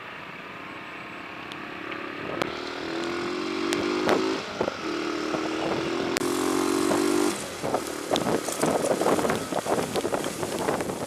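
A motor vehicle engine rises to a steady, slightly climbing note with a short break about halfway, like a gear change, then fades out about seven seconds in. After it comes uneven crackling of rain and wind on the action camera's bare built-in microphone.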